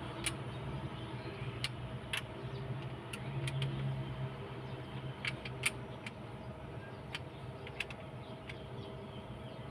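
Scattered sharp metallic clicks and clinks of tools and parts being handled during engine work, about a dozen spread unevenly, over a steady low hum.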